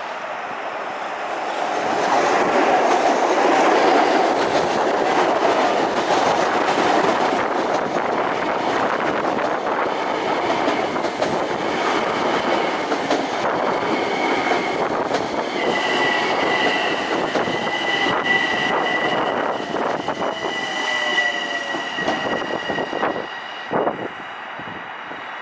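Long Island Rail Road M7 electric multiple-unit train passing close by at speed: a loud rushing rumble of steel wheels on the rails with clickety-clack over the joints. From about halfway through, two steady high-pitched tones ride over the rumble, and near the end the sound drops to a quieter level with a few sharp clicks.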